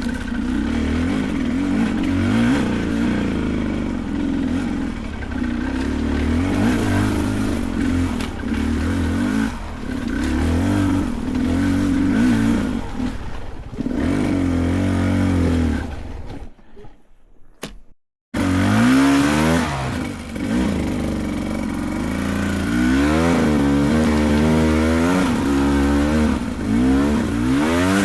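Beta 300 Race two-stroke dirt bike engine revving under load, its pitch rising and falling with the throttle. The sound drops out briefly about 17 seconds in, then comes back with a run of quick repeated revs.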